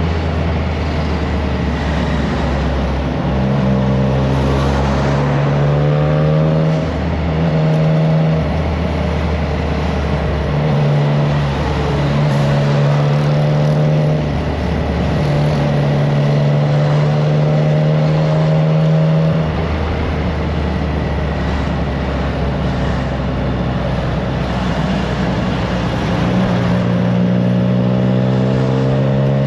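Triumph Trident 660's inline three-cylinder engine through an aftermarket FireTong exhaust while riding, the exhaust note stepping up and down in pitch many times as the throttle opens and closes and gears change. Wind rushing over the microphone runs underneath.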